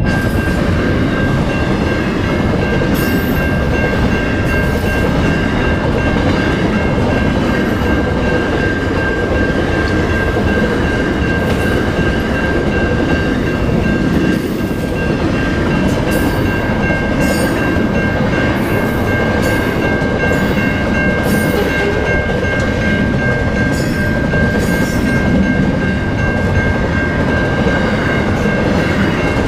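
Double-stacked container freight train rolling past at close range: a steady heavy rumble of wagons on the rails, with scattered clicks and rattles, more of them in the second half. A few steady high tones run through it.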